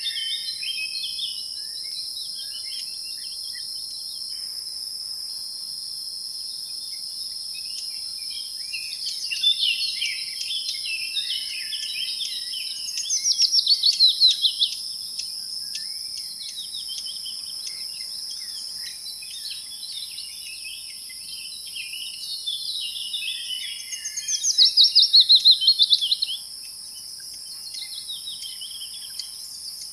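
Outdoor nature ambience: a steady high-pitched insect drone with assorted birds chirping. Twice, about 13 seconds in and again near 24 seconds, a bird gives a louder fast series of repeated falling notes lasting one to two seconds.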